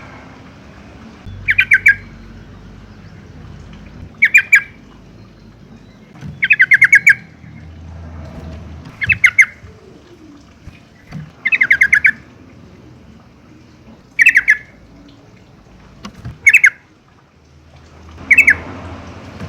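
Yellow-vented bulbul giving its chattering call: short loud bursts of rapid, clipped notes, repeated eight times about every two and a half seconds.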